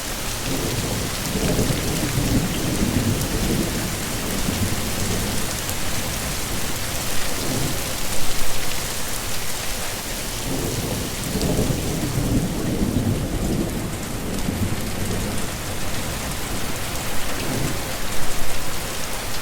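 Heavy rain falling steadily, with low thunder rumbling twice: a few seconds in and again a little past the middle.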